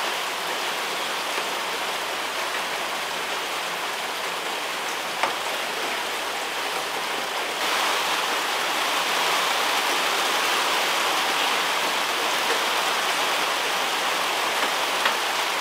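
Steady rain falling, an even hiss with a few sharp single ticks like drips; it gets a little louder about halfway through.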